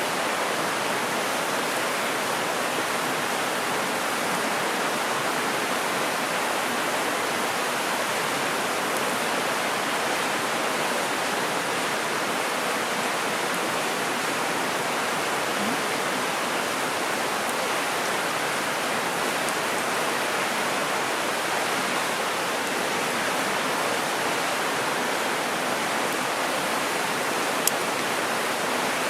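Mountain stream rushing over rocks, a steady, unbroken wash of water. A single faint click near the end.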